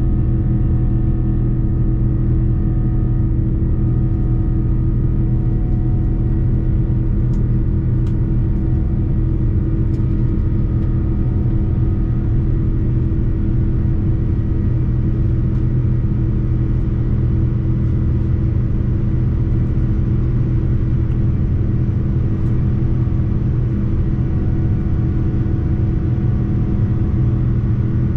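Steady cabin noise inside a Boeing 787-9 jet airliner: a constant low drone of engines and airflow with a few steady hum tones running through it, and a few faint ticks.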